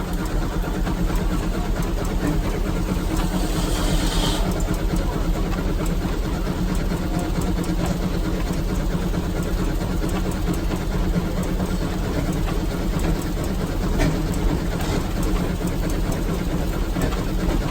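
J.I. Case steam traction engine running steadily while powering a sawmill, with a brief higher whine about four seconds in.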